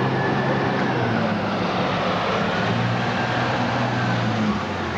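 Steady motor-vehicle engine hum with a loud rushing noise over it, running evenly throughout.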